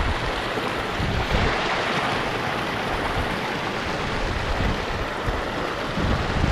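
Strong wind gusting across the microphone: a steady rushing noise with low buffeting rumbles, heaviest at the start and again near the end.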